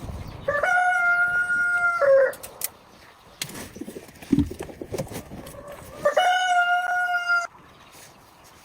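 A rooster crowing twice, each a long held call of about one and a half seconds that swoops up at the start and drops away at the end, with about four seconds between them.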